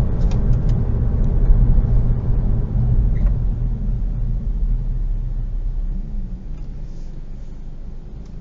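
Steady low rumble of a car driving, as picked up by a dashcam, with a few faint clicks in the first second; it slowly gets quieter over the last few seconds.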